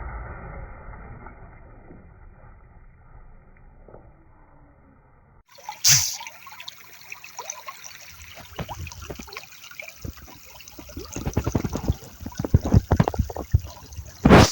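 River water trickling and rushing, with a run of knocks and bumps from about 8 seconds in and a loud knock about 6 seconds in. Before that, a muffled, fading sound that is cut off suddenly about 5 seconds in.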